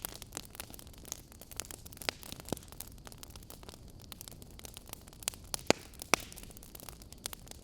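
Wood fire crackling in a fireplace: scattered sharp snaps and pops over a steady low hiss, with two louder pops about two-thirds of the way through.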